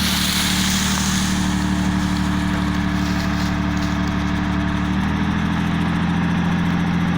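Mercedes-Benz 1313 truck's diesel engine running at a steady speed, its pitch dropping slightly about five seconds in.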